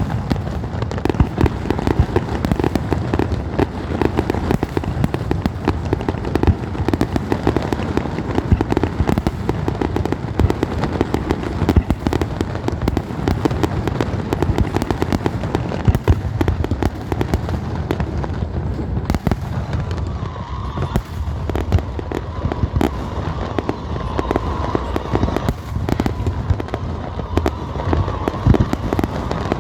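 Fireworks going off in a dense, unbroken barrage: rapid bangs and crackling that never let up.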